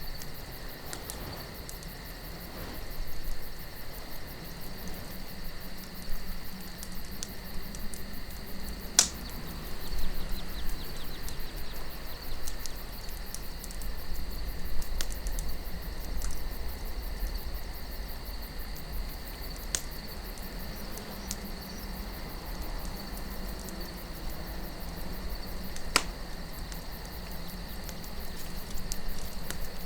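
Campfire wood crackling with fine ticks and two sharp, loud pops, about a third of the way in and again near the end. A steady chirring of night insects and a low wind rumble run underneath.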